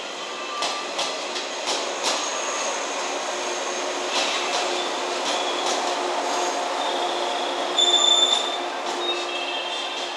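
JR West 113 series four-car electric train running past a station platform, its wheels squealing in thin high tones that come and go, loudest about eight seconds in. A few sharp clicks from the wheels sound in the first two seconds.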